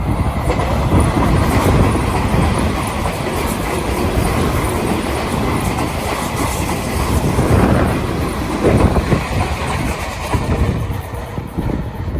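Tokyu 5000-series electric commuter train running through a station on a curve, its wheels clattering over the rail joints, with strong wind buffeting the microphone.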